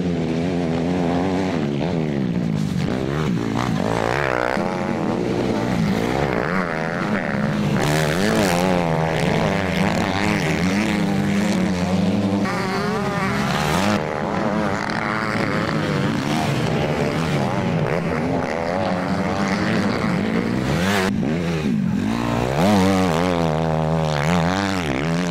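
Several motocross bikes' engines revving together on the track, their pitch rising and falling over and over as riders open and close the throttle and shift gears.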